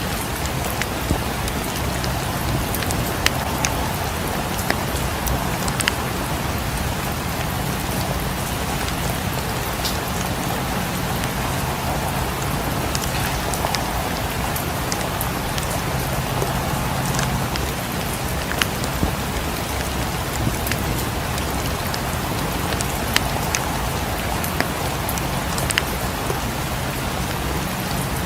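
Steady rain pattering on a surface, mixed with a fireplace's scattered sharp crackles and pops over a low, steady rumble.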